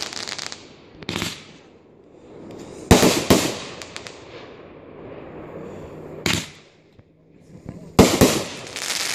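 Aerial fireworks bursting: a sharp bang about a second in, two close together near three seconds, one past six seconds and another quick pair near the end, each trailing off in a fading crackle.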